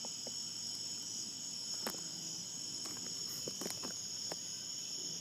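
Crickets chirping in a steady chorus, heard as a few continuous high trills, with a couple of faint clicks in the middle.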